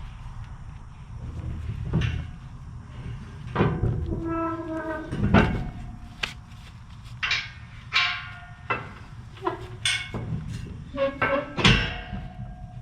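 Irregular metallic clanks and rattles, some ringing briefly, typical of tie-down chains and binders being handled, over a steady low rumble.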